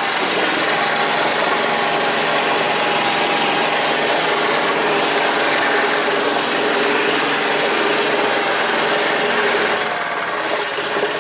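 Engine of a karakat, a homemade all-terrain vehicle on low-pressure tyres, running steadily under load as it drives, easing off slightly near the end.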